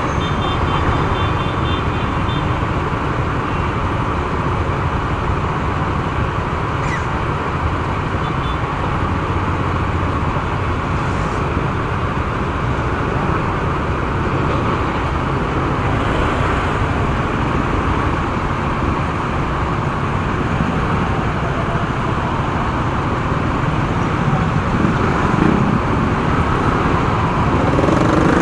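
Motorcycle ride through traffic: steady engine, wind and road noise, with a short run of high beeps just after the start and the noise swelling near the end.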